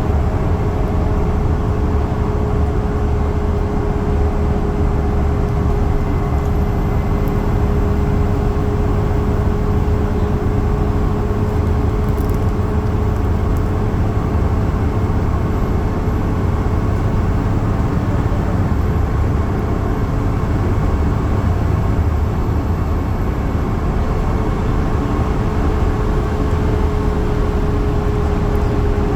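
Yutong bus travelling at high speed: a steady low rumble of engine and road noise with a thin, steady whine over it.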